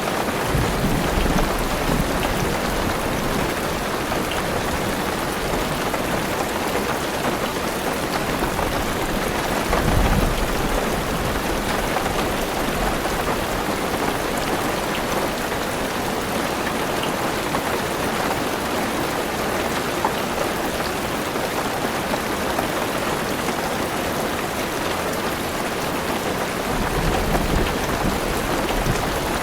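Heavy rain falling steadily on a car roof and windows, heard from inside the car. Low rolls of thunder swell near the start, about ten seconds in, and again near the end.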